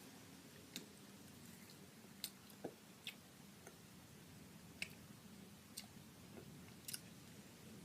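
Faint chewing of a sour Skittles candy, with a few small scattered clicks over a low room hum.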